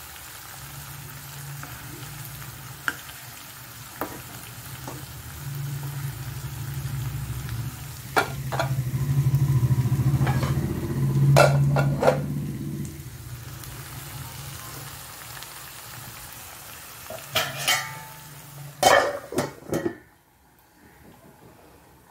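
Chicken pieces sizzling as they shallow-fry in oil in a pan, stirred with a wooden spatula, with occasional knocks. Near the end come several clattering knocks of pans or lids, then the sizzling drops away sharply.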